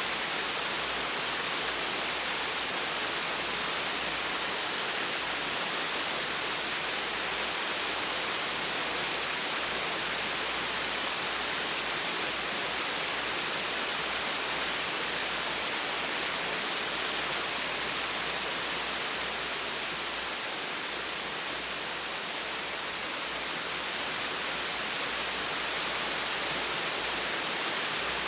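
Gentle waterfall: a steady, even rush of falling water, dipping slightly in loudness about two-thirds of the way through.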